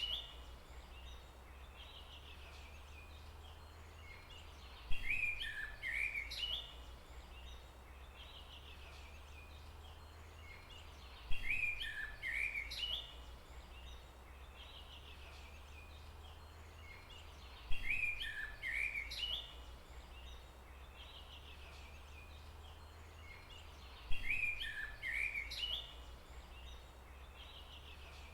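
A songbird singing a short phrase of quick chirping notes, each starting with a sharp note and lasting about two seconds. The same phrase comes four times, about every six and a half seconds, over a steady low hum.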